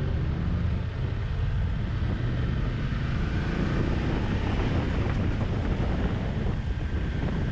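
Motorcycle engine running while riding, partly buried under wind rushing over the microphone.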